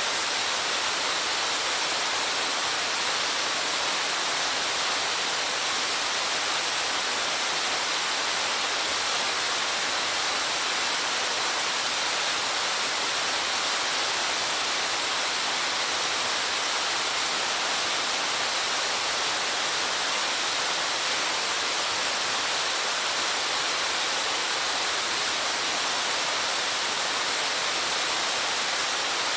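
Waterfall with a 27-metre drop, its falling water making a steady, unbroken rushing hiss.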